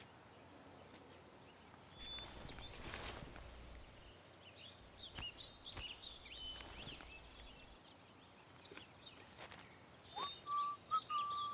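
Birds chirping and calling in a quiet forest, with a few soft rustles. Near the end there is a short held whistle-like note.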